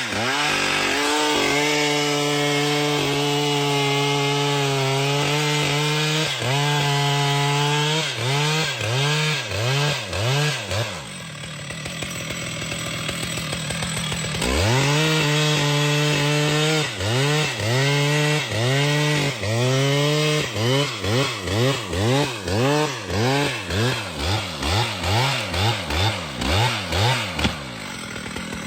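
Two-stroke chainsaw cutting wood: the engine is held at high speed, drops back briefly a little before the middle, then returns to high speed, its pitch rising and falling over and over in the second half as the throttle is worked.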